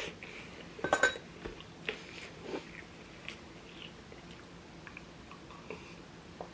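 Close-up eating sounds: a person chewing and biting food, with a cluster of sharp clicks about a second in, then scattered small ticks.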